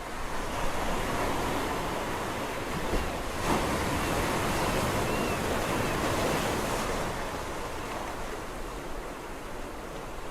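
Sea waves breaking and washing on the shore: a swell of surf builds about half a second in, stays loud through the middle, and eases off as the water draws back near the end.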